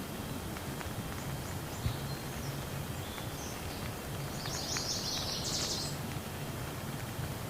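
Steady rain falling, with scattered sharp drop ticks. A brief burst of high chirping comes about halfway through.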